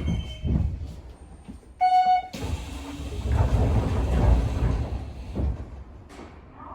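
Interior of a Hanshin 9000 series train at a station stop. About two seconds in there is a brief half-second electronic tone. Then comes a hiss and rumble for about three seconds as the sliding doors open, dying away near the end.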